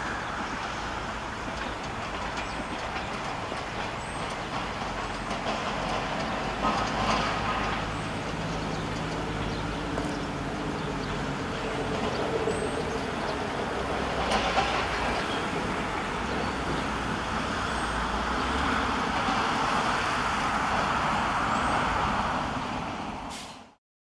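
Siemens Desiro diesel multiple unit running past on the line, a steady diesel engine drone mixed with wheel and rail noise. It grows a little louder late on, then fades out quickly near the end.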